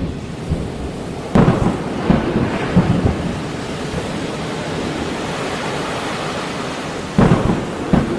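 Thunder rumbling twice, about a second and a half in and again near the end, over a steady wash of rain and sea surf.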